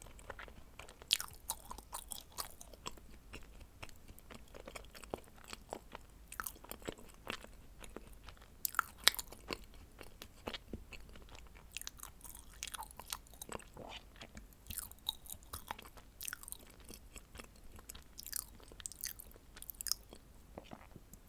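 Close-miked chewing of dacquoise cookies: irregular small wet smacks and crisp clicks as the meringue shells and cream filling are chewed.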